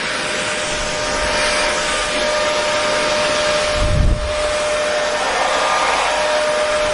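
Hair dryer running steadily: a loud rush of air with a constant whine. About four seconds in there is a brief low thump, and the whine drops out for a couple of seconds before returning.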